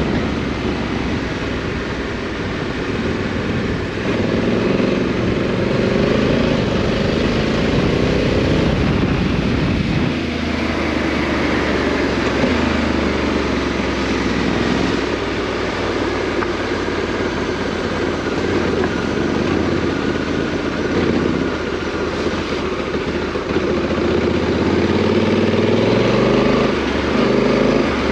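Parallel-twin adventure motorcycle engine ridden off-road, its note rising and falling with the throttle over a steady rush of noise.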